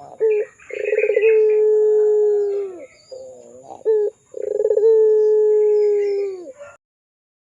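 Puter pelung, a domestic ringneck dove, cooing: two long steady coos, each opened by a few short notes and a quick stutter and dropping in pitch as it ends. The sound cuts off suddenly near the end.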